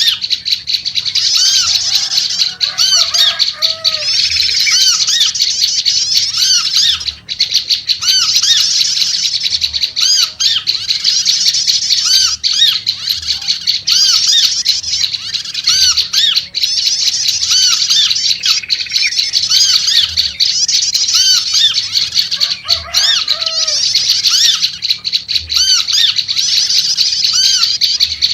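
Prenjak lumut calling in a fast, agitated, non-stop high chatter, mixed with repeated short arched notes. Now and then, lower whistled phrases of a trucuk (yellow-vented bulbul) come in, about three seconds in and again near the end.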